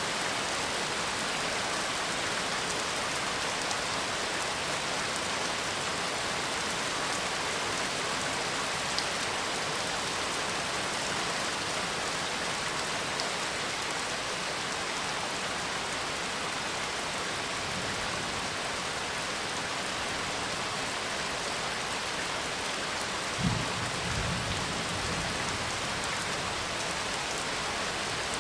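Steady, even rain ambience. About three-quarters of the way through, a short low rumble of thunder rises and fades over a couple of seconds.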